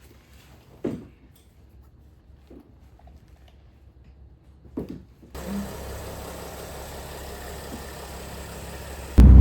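A few soft knocks, then a steady engine hum starts about five seconds in, and a much louder sound cuts in near the end.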